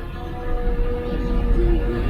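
IFA L60 truck's diesel engine running steadily, heard from inside the cab, with a radio playing music over it.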